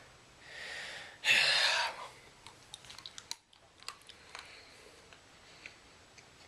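A person chewing a bite of 100% cacao chocolate: a loud breath about a second in, then small clicking mouth noises of chewing that die away.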